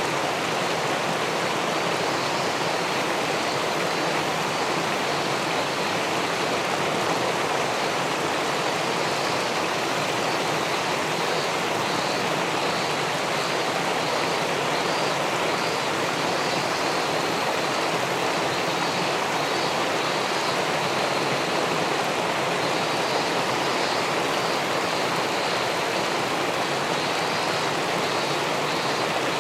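Steady rushing and splashing of river water pouring over a weir into the pool below.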